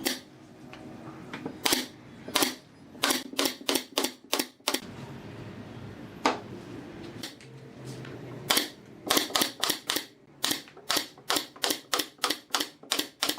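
Pneumatic fastening tool firing into wood, a sharp click with each shot: a few single shots, then quick runs of about three shots a second.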